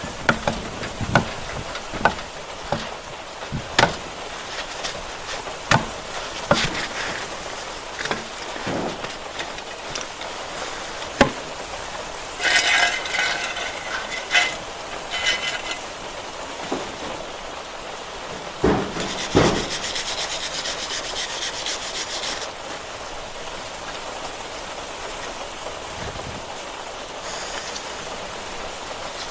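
Hand tools knocking, clicking and scraping on metal during rear brake work on a car, with two stretches of fast clicking rattle near the middle.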